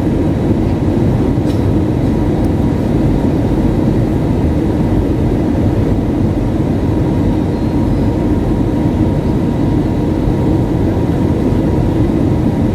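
Airbus A320 cabin noise in flight: a steady rumble of engines and airflow, strongest in the low range.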